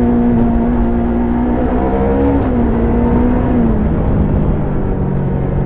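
Stock Yamaha YZF-R3's parallel-twin engine and exhaust pulling at steady revs while riding. About two-thirds of the way in the revs fall and settle at a lower, steady pitch.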